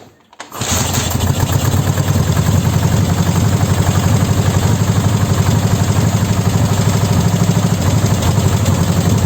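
Soviet Dnepr motorcycle's flat-twin engine starting about half a second in, then idling steadily with an even pulsing beat, running on newly replaced pistons after years standing unused.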